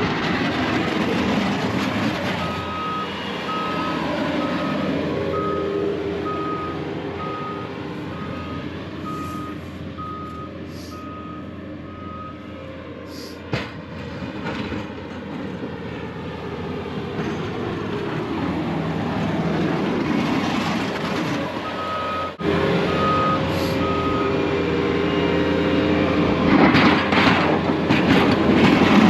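Plow truck running with a backup alarm beeping in one steady tone about once a second while the truck reverses, for about ten seconds and again briefly later on. A single sharp knock comes about halfway through.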